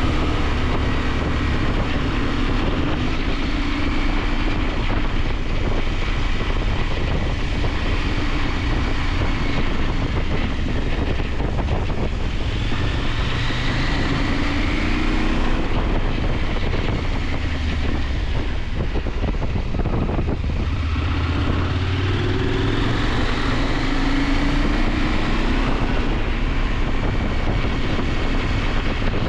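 KTM 890 Adventure's parallel-twin engine running under way, its pitch climbing and dropping several times as the rider accelerates and eases off through the curves, over a steady rush of wind noise.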